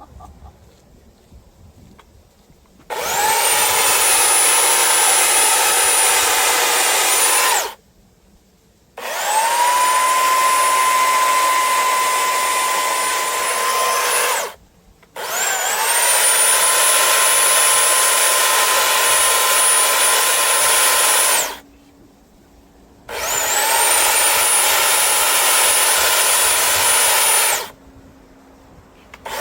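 A high-speed electric power-tool motor switched on and off four times, running for about five seconds each time. Each run starts with a whine that rises in pitch as it spins up, then holds steady, and stops abruptly. It starts a fifth time at the very end.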